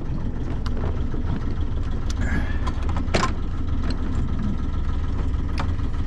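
Sailing yacht's inboard engine running steadily under way, heard on board as a low rumble, with a few sharp knocks, the loudest about three seconds in.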